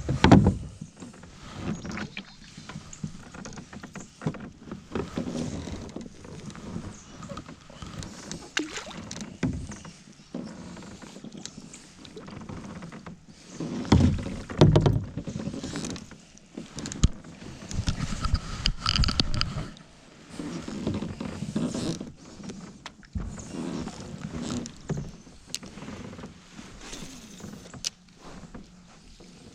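Kayak sounds on the water: irregular knocks and thumps against the hull with water sloshing, loudest around halfway through and again a few seconds later.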